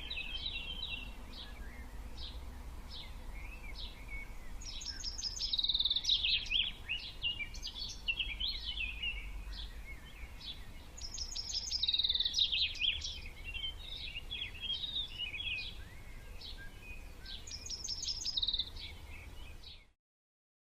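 Birds chirping and singing, with a louder phrase of quick repeated notes coming back about every six to seven seconds among steady softer chirps, over a low rumble. It cuts off suddenly near the end.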